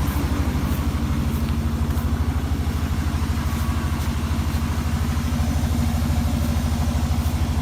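An engine running steadily at idle with a fast, even chugging beat.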